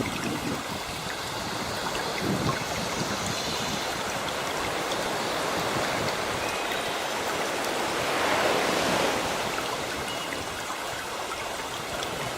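Sea waves washing in continuously, with one wave surging louder about two-thirds of the way through. Faint bird chirps come through now and then.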